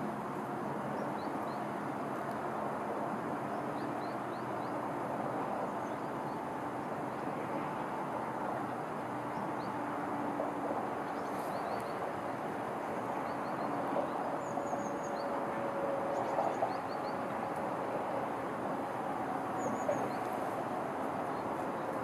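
Small birds chirping faintly in short, high calls scattered throughout, over a steady low background rumble.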